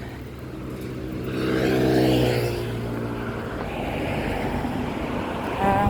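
A motor vehicle passing by, its engine swelling to a peak about two seconds in and then fading, over a steady background rush.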